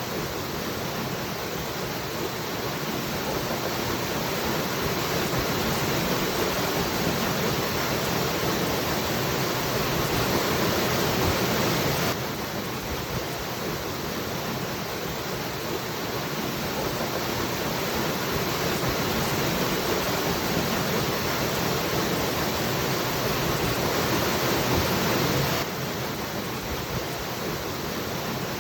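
Waterfall rushing in a steady, even roar of falling water. The level drops sharply twice, about 12 seconds and about 26 seconds in, and then slowly builds again.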